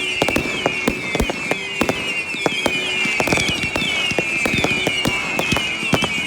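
Fireworks going off: a dense, irregular run of crackles and pops over a steady high whistling.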